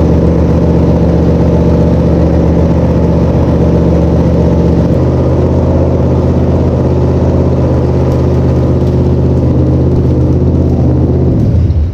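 Small-block Mopar 318 V8 running on its first start after an engine swap, loud and steady, settling to a slightly lower speed about five seconds in, then shut off near the end as its accessory belt comes apart.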